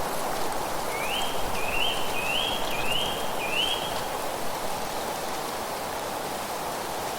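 A bird gives five quick rising whistled notes in a row, starting about a second in, over a steady rushing hiss of wind through leaves.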